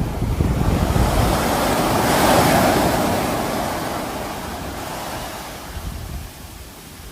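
Sea waves on a shore: one wave breaks, its wash swelling to a peak about two and a half seconds in and then slowly fading, over a low rumble.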